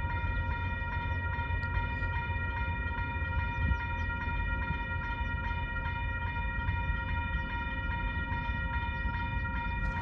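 Freight train hauled by an EMD SD60 locomotive: a heavy low rumble under one steady high-pitched tone held unbroken throughout, with a faint regular clicking.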